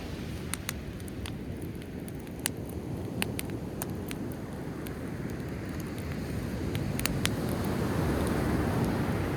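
Driftwood campfire crackling, with scattered sharp pops, over the low rush of sea waves that swells up near the end.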